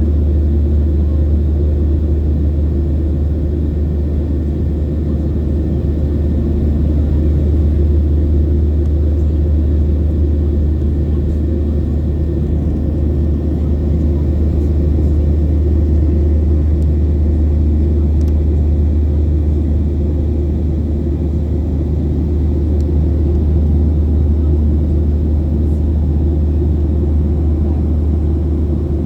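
Boeing 737 jet engines running: a loud, steady low rumble with a faint steady hum above it.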